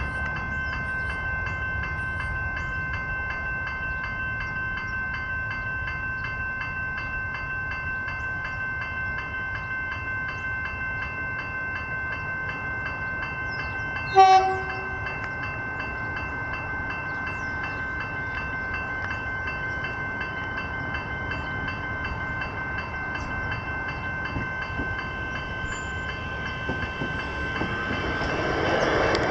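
Level crossing's electronic bell ringing steadily, with one short train horn blast about halfway through and a train's running noise growing louder near the end.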